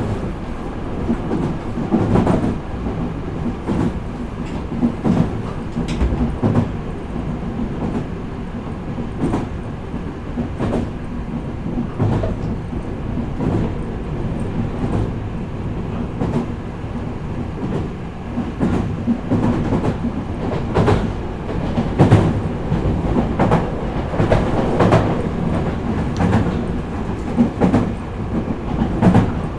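Meitetsu 4000 series electric train running, heard from inside the passenger car: a steady rumble of running gear, with wheels clacking over rail joints again and again.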